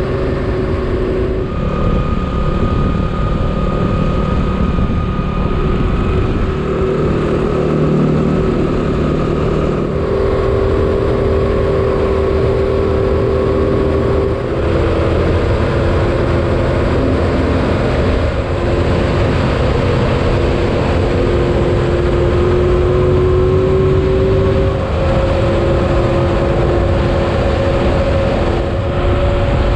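Motorcycle engine running under way on a dirt road, with wind and rumble noise over it. The engine note holds steady, then shifts to a new pitch every few seconds as the rider changes gear and throttle.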